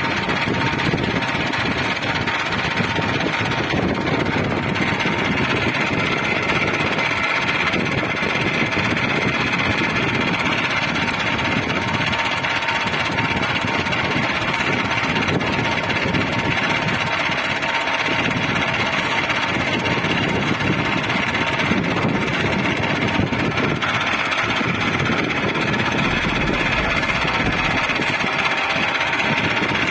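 Tractor's diesel engine running steadily, a continuous mechanical rumble with a thin steady whine.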